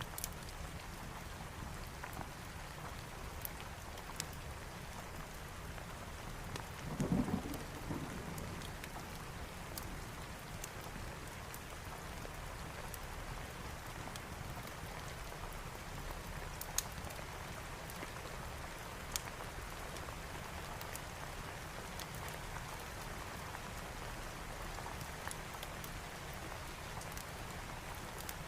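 Steady rain pattering, with a short low rumble of thunder about seven seconds in and a few scattered sharp ticks.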